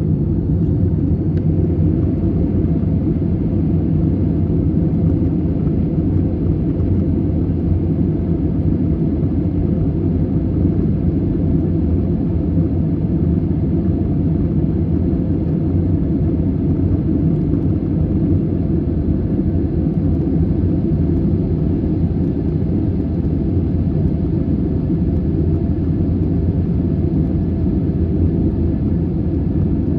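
Boeing 737-800 jet airliner with CFM56-7B turbofan engines: a steady, even low rumble of engines and airflow that holds level throughout, with no changes in pitch or loudness.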